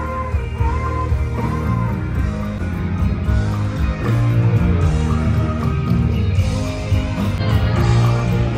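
A live rock band playing, with guitar prominent over sustained bass notes.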